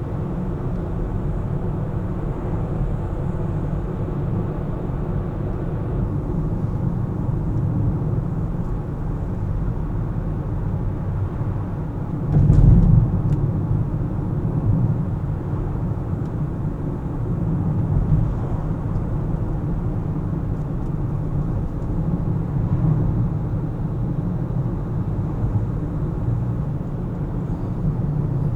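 A car driving on the road: a steady low rumble of engine and tyre noise. About halfway through there is a brief louder thump.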